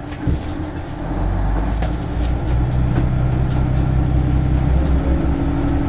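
Railway engine running at the platform, a low steady rumble with a hum that grows louder about a second in.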